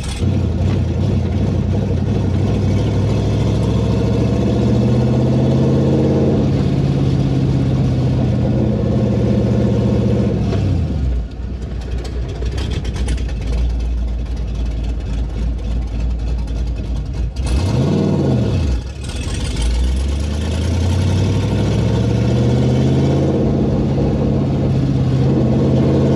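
Pontiac Trans Am's engine running loud and rowdy through an exhaust with one muffler missing. It pulls up through the revs twice, easing off in between, with a short quick rev and drop about two-thirds of the way through.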